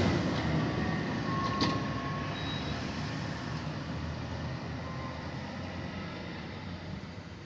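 Garbage truck engine and road noise fading steadily as the truck drives off.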